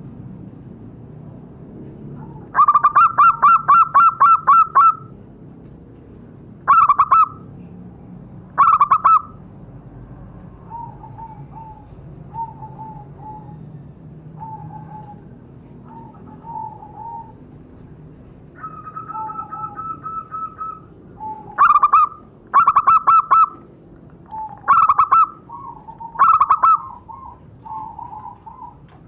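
Zebra doves (perkutut) cooing: loud bursts of quick staccato coo notes, with single notes and softer, lower coos between the bursts.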